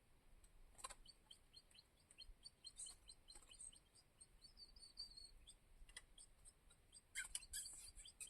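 Faint small-bird chirping: a scatter of short, high notes, with a brief trill about halfway through. A few sharp rustling clicks come about a second in and again near the end.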